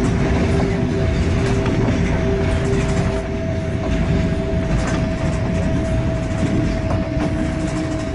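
A passenger train running, heard from inside the carriage: a steady low rumble of wheels on the rails with a steady whine and faint scattered clicks.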